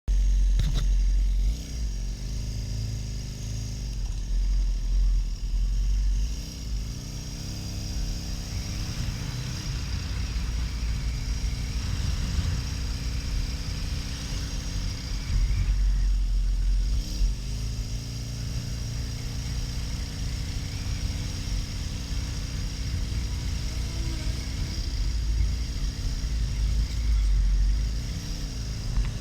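2009 Harley-Davidson XL1200N's air-cooled V-twin running under way, its note dipping and climbing again several times as with throttle and gear changes, over heavy wind rumble on the microphone.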